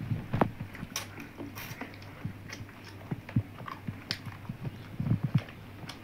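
Close-up eating sounds of people chewing rice and curry eaten by hand: irregular wet smacks and short clicks.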